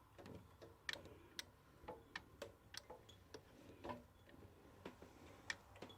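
Faint, irregular light clicks and ticks from a Consew 206RB walking-foot industrial sewing machine being turned slowly by hand, its mechanism moving through the stitch cycle.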